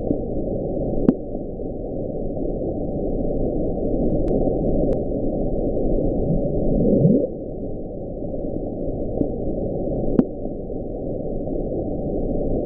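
Hydrophone recording of the 1997 'Bloop', played back sped up: a deep, rumbling hiss of ocean noise with a few rising sweeps, the clearest about seven seconds in. NOAA attributes the sound to ice cracking and shifting in Antarctica.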